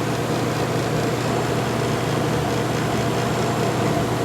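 1952 Vornado room air conditioner running with its cover off: a steady hum from the compressor and fan motors under the rush of air. Most of the noise comes from the condenser fan.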